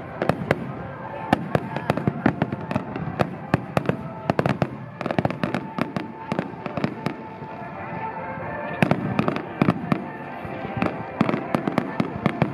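Aerial fireworks shells bursting in a rapid barrage, many bangs a second, easing briefly in the middle and then packing together again. Music plays underneath.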